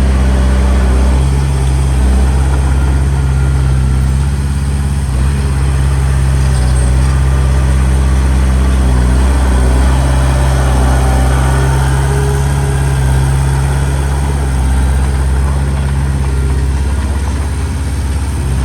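Diesel engine of heavy earthmoving machinery running steadily with a deep, even hum and only small changes in load.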